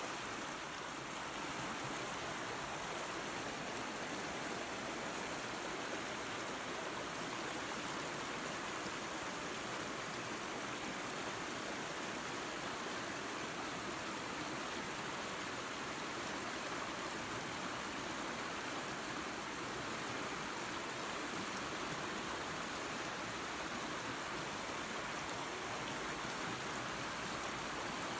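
Small waterfall and creek running steadily: an even rush of flowing water.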